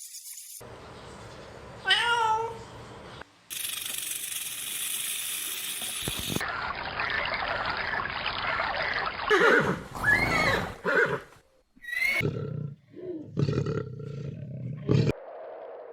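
Cat calls in a string of short spliced clips: one falling call about two seconds in, then a run of loud rising-and-falling cries and growls in the second half.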